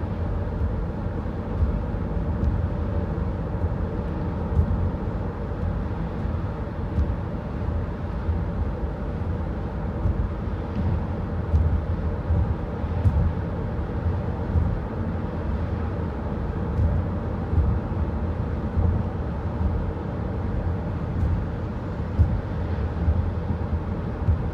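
Semi truck's diesel engine running at a steady speed with a continuous low rumble of road travel.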